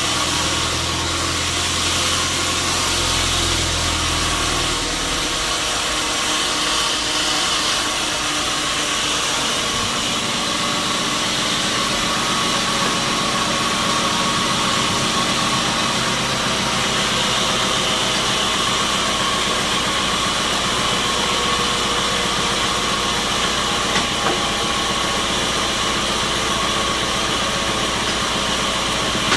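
Sawmill machinery running steadily, a continuous mechanical drone with a steady high whine.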